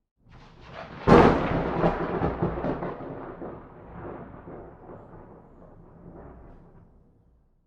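A single thunderclap: a building rumble breaks into a sharp crack about a second in, then rolls on and slowly fades away over several seconds.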